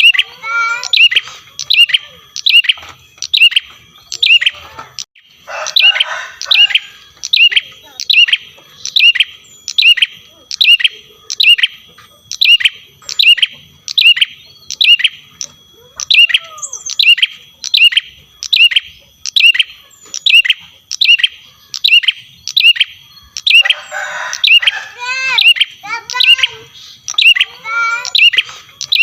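Male prinia (prenjak) calling: a steady run of sharp, downward-sweeping chirps, about three every two seconds. A burst of rapid, buzzy trilling chatter breaks in twice, around six seconds in and again near the end.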